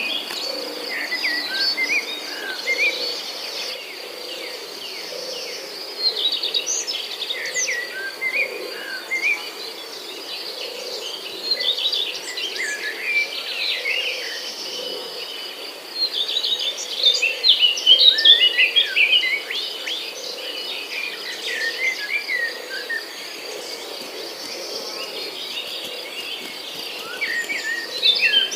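Many small birds chirping and twittering in quick, overlapping calls, louder in a burst past the middle, over a steady high insect trill.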